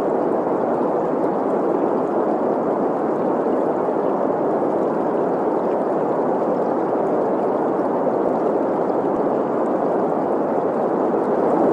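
Steady green noise, an even hiss centred around 500 Hz, mixed with the sound of running stream water.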